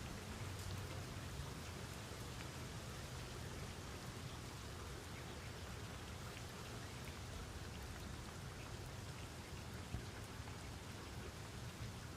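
Steady rain falling, a continuous patter of drops with a low rumble underneath.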